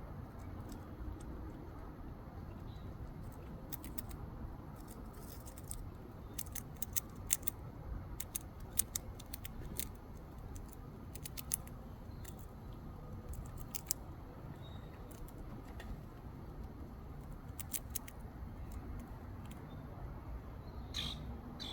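Squirrel gnawing at food, giving irregular sharp clicks and crunches that come in clusters through the middle, over a steady low rumble of background noise. A short high sound comes near the end.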